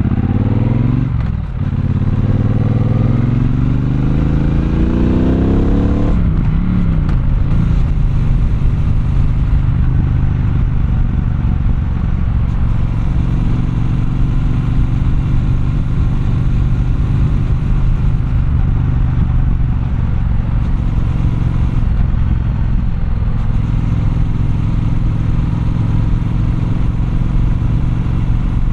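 Triumph Bonneville Bobber's 1200 cc parallel-twin engine pulling away under throttle, its pitch rising, dropping briefly at a gear change about a second and a half in, then rising again. After about six seconds it settles into steady cruising.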